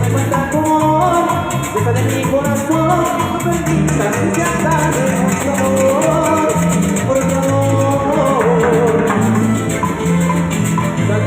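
Instrumental Latin dance music from a band: a shaker rattles steadily over a bass line, with a melodic lead line playing above.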